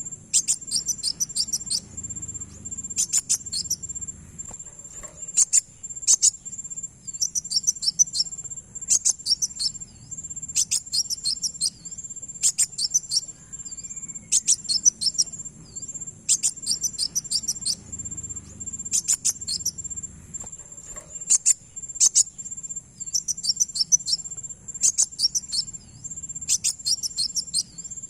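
Kolibri wulung (a sunbird) calling: short bursts of rapid, sharp, high chirps, each burst under a second long and repeated every second or two. Under them runs a steady high insect trill, like a cricket.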